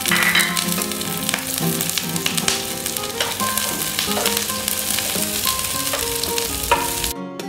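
Sliced onion and chillies sizzling in oil in a nonstick pan while a spatula stirs and scrapes them, with clicks as it knocks the pan. The sizzle cuts off abruptly near the end, leaving a guitar tune playing underneath.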